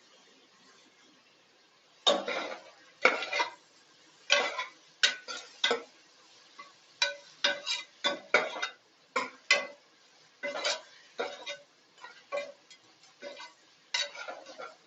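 A ladle stirring onions frying in oil in a pressure cooker. From about two seconds in there are quick, uneven scrapes and knocks against the pot, about twenty strokes.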